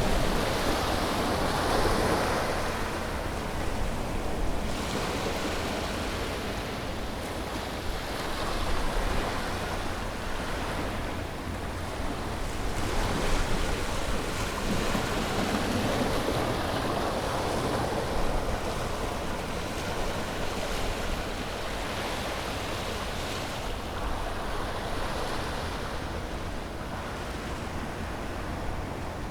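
Sea waves breaking and washing on a shore, a continuous surf rush that swells and ebbs every few seconds.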